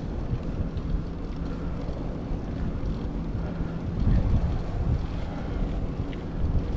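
Wind buffeting the microphone of a camera on a moving bicycle: a steady low rumble that swells about four seconds in.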